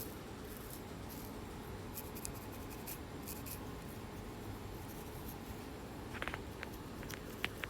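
Faint scratching and picking at a flaky scalp through the hair: a few short scratchy strokes, then small clicks about six seconds in and again near the end, over a steady background hiss.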